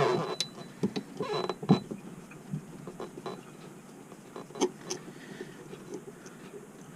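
Screws being fitted and tightened by hand into a Whale Gusher 10 bilge pump during reassembly: scattered light metallic clicks, taps and scrapes of the screwdriver and parts, busiest in the first two seconds.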